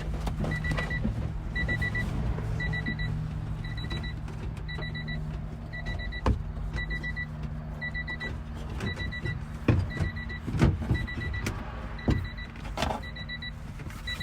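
A car's electronic warning chime beeping over and over in an even rhythm, about one to two high beeps a second, over a steady low hum. Several sharp clicks and knocks from work on the car come in the second half.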